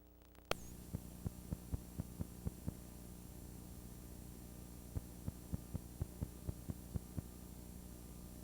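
Steady electrical mains hum that switches on with a click about half a second in. Over it come two runs of sharp ticks, about four a second.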